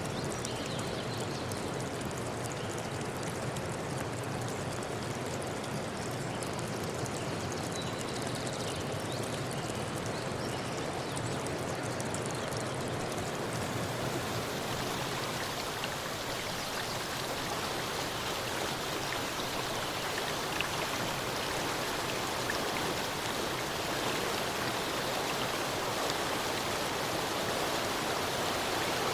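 Steady rushing of flowing water, a forest stream, growing slightly brighter and hissier about halfway through.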